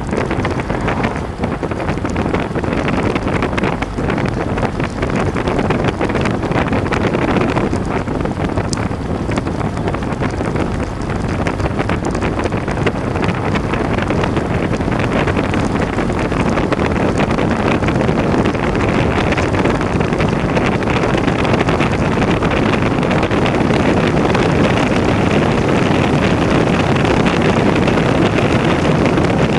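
Heavy wind noise buffeting the microphone, a steady loud rush that builds a little toward the end.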